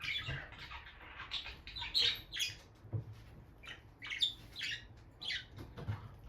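Peach-faced lovebirds chirping: short, high calls in quick clusters, several times over.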